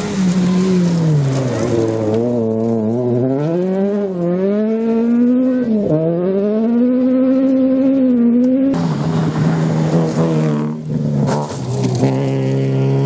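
Rally car engine revving, its pitch rising and falling repeatedly as the car accelerates and changes gear. About nine seconds in the sound cuts abruptly to a car engine holding a steadier pitch, with a harsher hiss over it.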